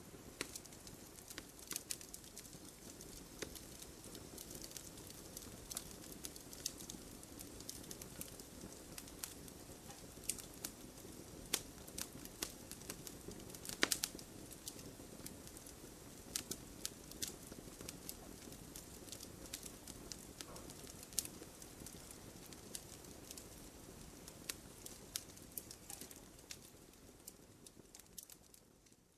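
Wood fire in a fireplace crackling: scattered sharp pops and snaps over a low steady rustle of the burning logs, with one loud pop about halfway through. The sound fades out near the end.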